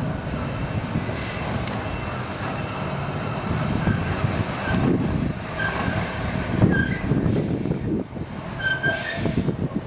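Heritage tram running along the track with a steady low rumble, its wheels giving several short, high-pitched squeals in the second half.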